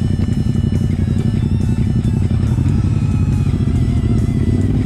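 Background music laid over a V-twin cruiser motorcycle engine running at low speed, its pulsing rumble steady throughout.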